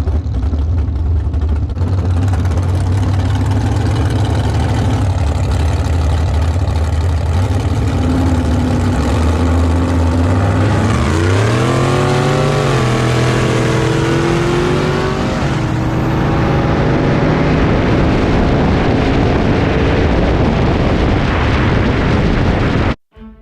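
Street-race vehicle engines running low and steady, then about eleven seconds in an engine revs up sharply as it launches and pulls hard for several seconds before tailing off into noise. The sound cuts off suddenly near the end.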